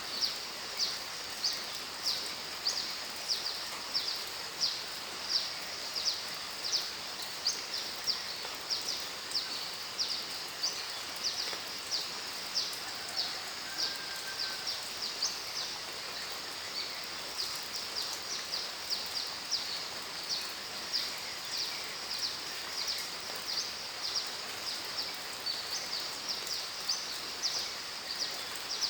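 Steady rain hiss with a small animal's high-pitched chirp repeating about twice a second; the chirping thins out midway and picks up again near the end.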